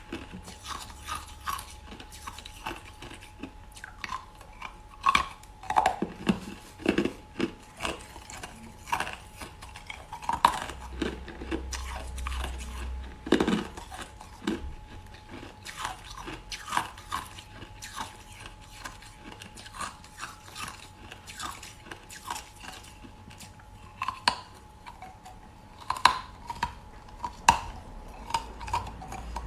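Crushed ice being bitten and chewed: irregular crisp crunches and cracks, with a few heavier, deeper crunches among them.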